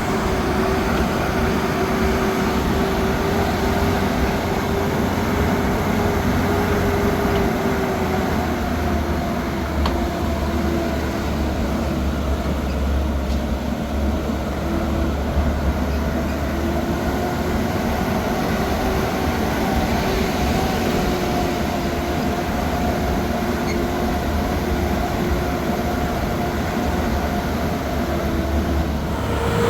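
Motor vehicle driving, its engine giving a steady rumbling drone with a whine that wavers slowly in pitch.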